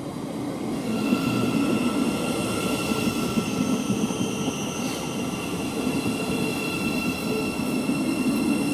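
Siemens Class 700 Desiro City electric multiple unit running into the platform, a rumble that grows about a second in, with steady high whining tones held over it.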